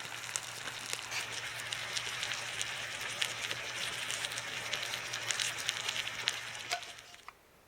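Bonfire cooking fire crackling and sizzling: a dense hiss with many sharp pops. It cuts off suddenly near the end.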